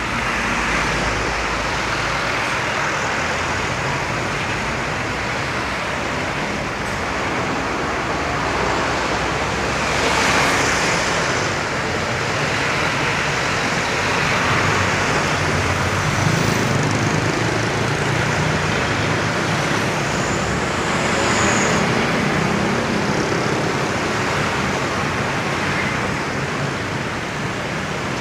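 Road traffic with trucks passing: a steady wash of engine rumble and tyre noise that swells several times as vehicles go by close.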